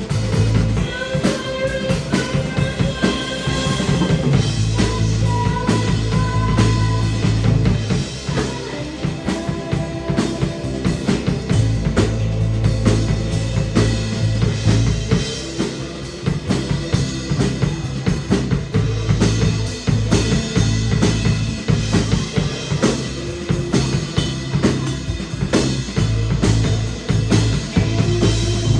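Live rock band playing, with a full drum kit driving it: bass drum, snare and rimshots under sustained guitar lines.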